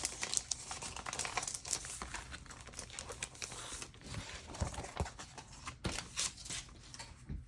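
Packaging crinkling and rustling in the hands as items are pulled out of a stationery subscription kit: an irregular run of small rustles and light taps.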